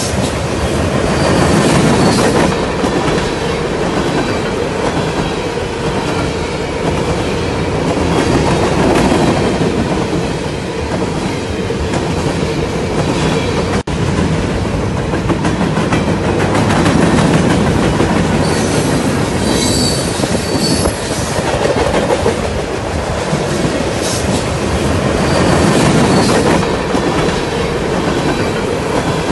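A train rolling past close by: a loud, steady rumble and clatter of steel wheels on the rails, swelling and easing every several seconds, with brief high wheel squeals about two-thirds of the way through and again near the end.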